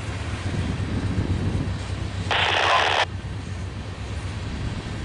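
Low steady rumble of Norfolk Southern's GE diesel locomotives leading a train. About two and a half seconds in comes a short burst of hiss from a railroad radio scanner, lasting under a second.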